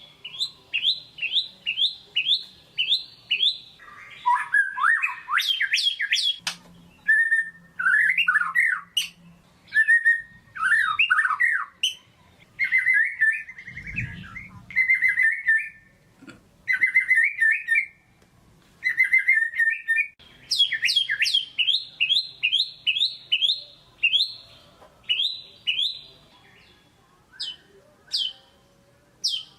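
White-rumped shama (murai batu) singing a loud, varied song: quick runs of short falling whistles, repeated several times a second, alternating with fuller warbled phrases. This is the kind of playback used to provoke a quiet caged shama into singing.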